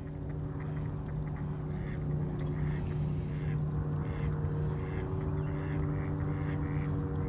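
Ducks quacking in short repeated calls over a steady low hum.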